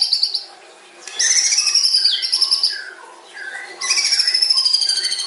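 White-rumped shama (murai batu) singing long phrases of rapid stuttering notes that slide gradually down in pitch. The phrases come three times, with short, lower warbled notes in the gaps between them.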